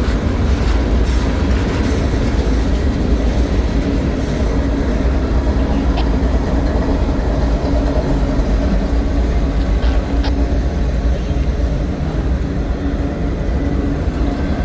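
Freight cars of a slow CSX manifest train rolling past: a steady low rumble, with a few faint clicks from the wheels.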